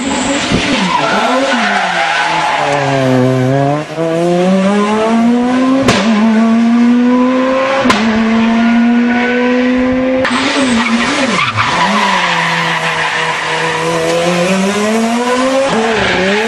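Dacia Logan Super 2000 rally car engine revving hard, its pitch dropping and climbing again several times and held high for a few seconds in the middle, with a couple of sharp clicks.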